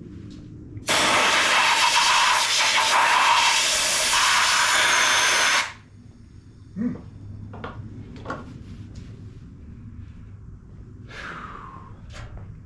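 Compressed-air blow gun blasting a steady loud hiss for about five seconds, starting about a second in and cutting off sharply, followed by a few light clicks and knocks of parts being handled.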